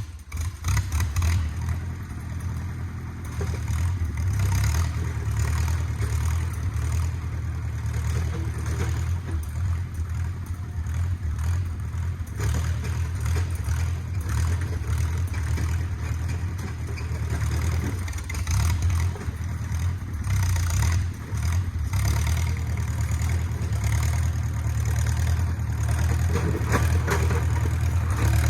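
Engine of a 1950s micro crawler bulldozer running steadily, with rattling and clanking from the machine throughout.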